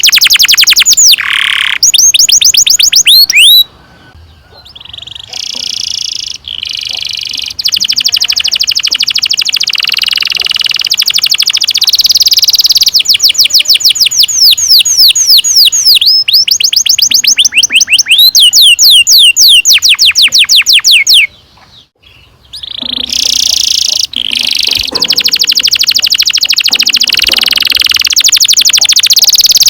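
Domestic canary singing long rolling trills: fast runs of repeated falling high notes, breaking off briefly about four seconds in and again about twenty-two seconds in.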